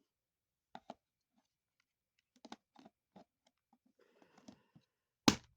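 Scattered small clicks and a light rustle of a cat snack being handled and put onto something, ending in one sharp knock near the end.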